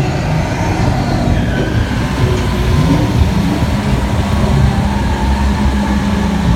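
Tour tram moving, a steady low vehicle rumble.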